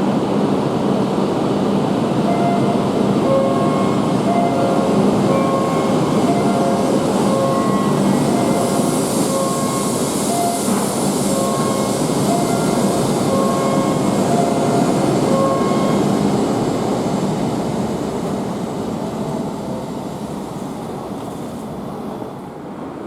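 Tohoku Shinkansen train running past the platform: a loud, steady rushing of wheels and air that dies away over the last few seconds. Behind it, a short tone pattern repeats about once a second.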